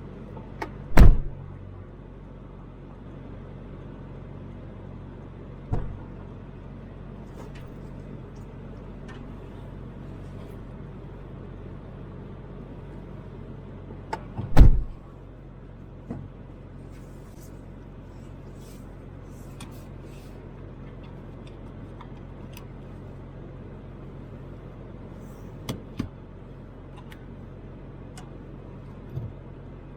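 Steady drone of a Toyota Land Cruiser 80 driving, heard from inside the cabin. It is broken by a few sharp thumps, the two loudest about a second in and near the middle.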